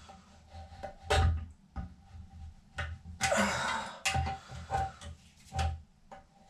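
Several separate knocks and clunks of toilet parts and tools being handled during a tank rebuild, the loudest a little after one second in.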